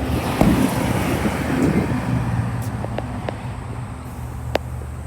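Road traffic going by: a vehicle passes, swelling and fading over the first couple of seconds above a steady low hum, followed by a few light clicks.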